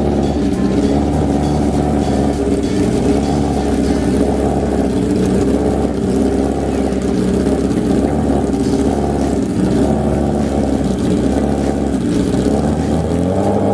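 Sport-bike inline-four engines, a Suzuki Hayabusa and a GSX-R, running loud and steady at drag racing, the pitch wavering slightly as the throttles are worked.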